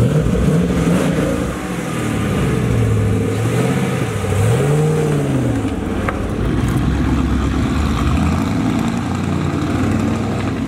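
Chevrolet Camaro Z/28's V8 catching with a loud burst, then running at low revs, its pitch rising and falling several times as the throttle is worked.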